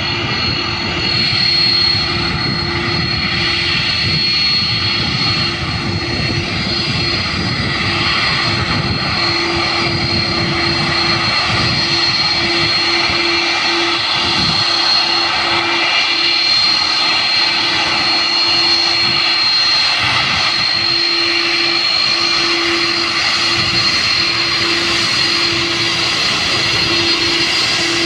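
Airbus A330-300 jet airliner's engines running steadily: a continuous rush with a steady high whine and a low hum.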